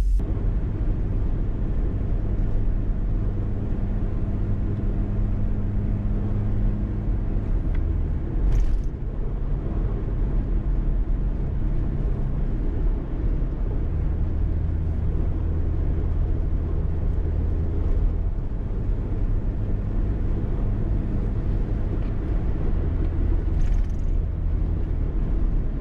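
Low, steady vehicle rumble: engine and road noise of a camper on the move, its low hum swelling and easing a few times. There are two faint clicks, one about a third of the way in and one near the end.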